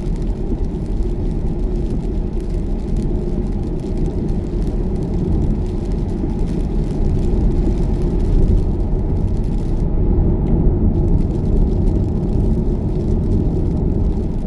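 Steady road and tyre noise inside the cabin of a Tesla electric car driving at motorway speed: an even, low noise with no distinct events.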